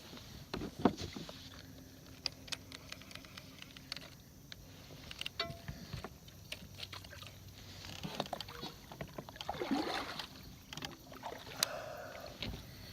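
Scattered clicks, knocks and light rattles of fishing gear being handled in a kayak, the loudest knock about a second in and another near the end.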